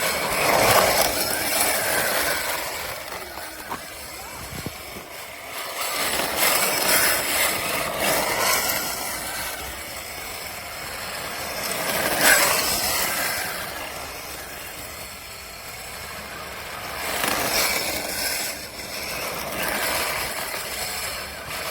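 Hyper Go 14301 brushless 1/14 RC drift car driving in repeated passes, its motor whine and tyre noise swelling and fading four times, roughly every five seconds.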